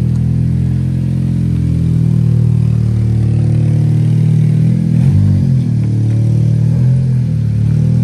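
Car engine and exhaust running steadily, with a brief drop and rise in pitch about five seconds in.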